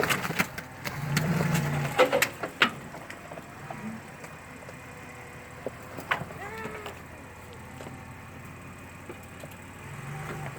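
Off-road vehicle engine running in mud, swelling briefly in the first couple of seconds amid several sharp knocks, then settling to a steady low run.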